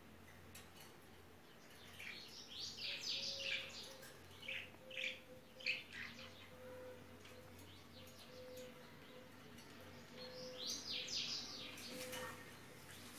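Birds chirping in two spells of quick, short high chirps a few seconds apart, over a faint steady low hum.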